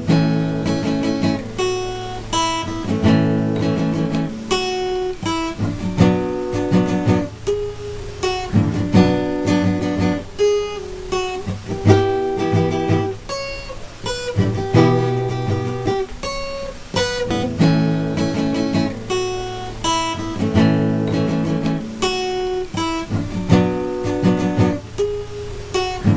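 Acoustic guitar music: a plucked and strummed chord pattern repeating at a steady pace, an instrumental passage between sung verses.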